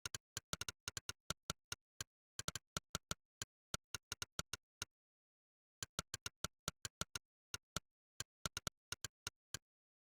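Monkeytype's synthesized "click" keypress sound, one short click per keystroke in a quick, uneven typing rhythm. There is a pause of about a second in the middle, and the clicks stop shortly before the end.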